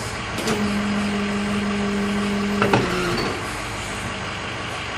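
Hydraulics of a tow truck's self-loader wheel lift working as the jaws close: a steady hum that stops with a clunk just before three seconds in. After that only the truck's engine idling is heard.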